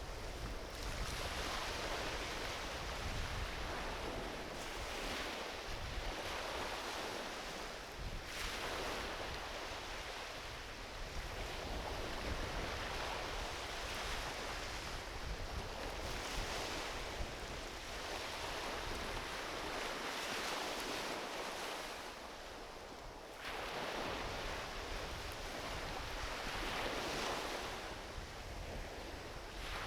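Small ocean waves washing onto a beach, a steady rush that swells every few seconds as each wave breaks and runs up the shore.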